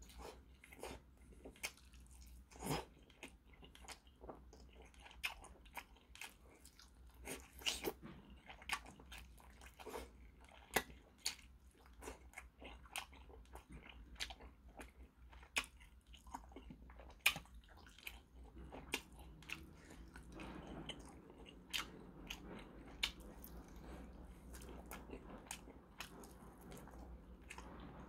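Quiet close-up eating sounds of a man biting into and chewing a chicken drumstick: many short, irregular clicks of teeth and mouth on the meat.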